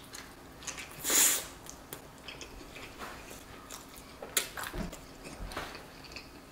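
A person biting and chewing a mouthful of tortilla with butter chicken, with small wet smacks and clicks. There is one louder rushing noise about a second in.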